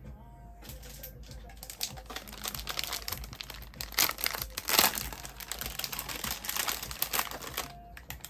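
Plastic or paper merchandise packaging crinkling as it is handled and unwrapped, in irregular crackles that build to a loudest stretch about halfway through and die down near the end.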